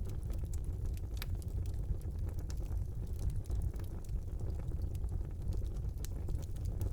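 Wood fire burning in a fireplace: a steady low rumble of the flames with scattered small crackles and pops, one sharper pop about a second in.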